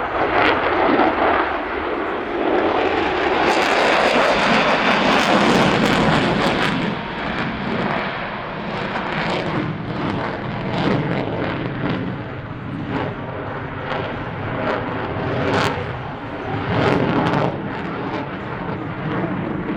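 Loud jet noise from the F-22 Raptor's twin Pratt & Whitney F119 afterburning turbofans in a display flight. It swells a few seconds in, then rises and falls, with a ragged crackle.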